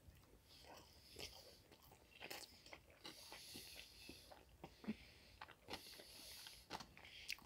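Faint close-up chewing of a sushi roll, with soft wet mouth sounds and a few small clicks scattered through.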